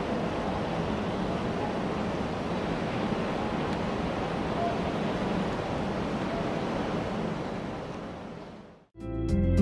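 Steady rushing noise of a railway station platform with a train running, fading out about eight seconds in; guitar music starts near the end.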